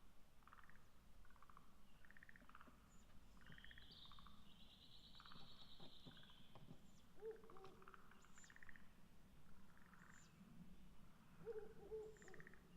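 Faint Ural owl calls: one long raspy call of about three seconds a few seconds in, falling toward its end, among short pulsed calls that repeat about once a second, and two lower short notes.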